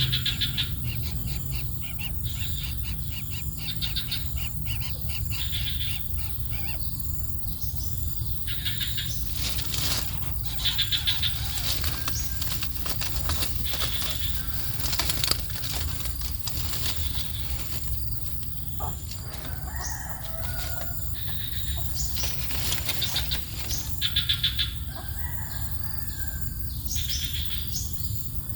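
Small birds chirping in rapid runs of short, high, repeated calls over a steady low rumble.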